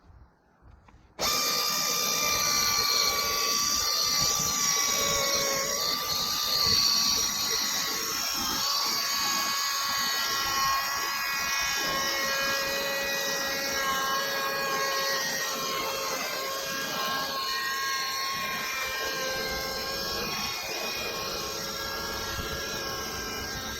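Logosol E5 electric speedsaw on an M8 sawmill, running steadily with a whine while sawing a board from a log. It comes in abruptly about a second in, with a few small dips in pitch as the load changes.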